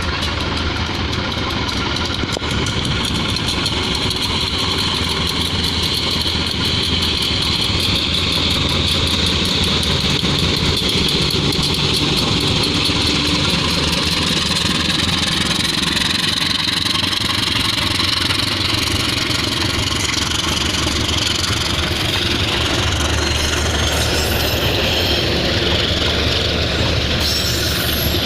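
Train running through the station: a loud, steady mechanical noise with a high hiss.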